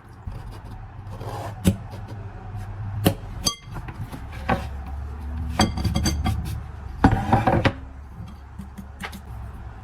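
Kitchen utensils and dishes clinking and knocking: a series of separate strikes, some ringing briefly like metal or glass, with a short clatter about seven seconds in, over a low steady hum.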